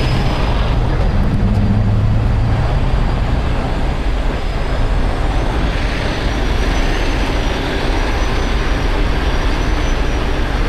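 Steady rumble of road traffic and heavy vehicles running, with no distinct event standing out.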